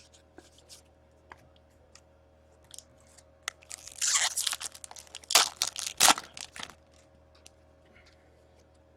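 A foil trading-card pack being torn open, with a burst of crinkling and tearing of the wrapper and a couple of sharp crackles, after a few light clicks of cards being handled.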